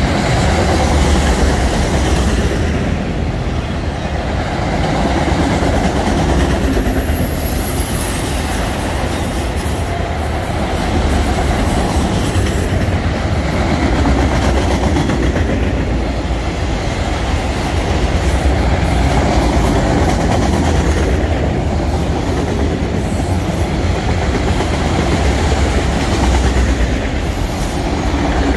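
Freight train of autorack cars rolling past close by: a steady, loud rumble of steel wheels on the rails.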